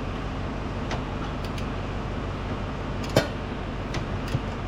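Wrench and socket clinking on metal while nuts are worked loose underneath a tractor's exhaust manifold, with a few short sharp clicks and one louder metal clank about three seconds in, over a steady low hum.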